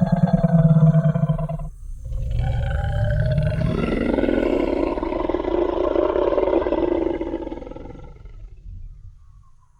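Tyrannosaurus rex roar sound effect: one roar ends about two seconds in, then a second, longer roar fades away near the end.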